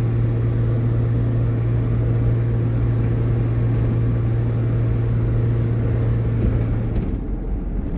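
Steady drone of a truck engine heard from inside the cab, under an even hiss of wind and road noise. About seven seconds in the hiss thins out and the engine note drops lower.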